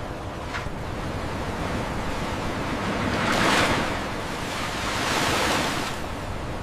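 Sea waves washing, with two louder swells of surf, about three and five seconds in.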